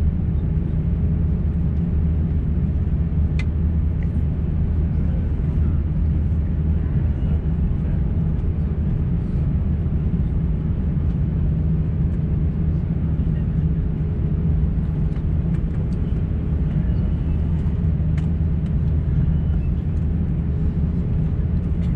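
Steady cabin noise inside an Airbus A350-900 airliner: the low, even rumble of its Rolls-Royce Trent XWB engines and airflow, with a constant low hum.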